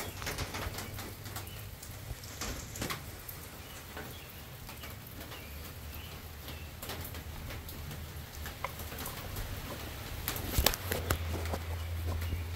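Steady rain falling, with scattered clicks and knocks; the loudest cluster of knocks comes about ten and a half seconds in. A low steady hum runs under it and grows stronger near the end.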